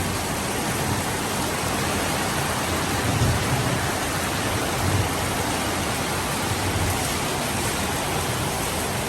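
Heavy tropical downpour: dense, steady rain hammering down.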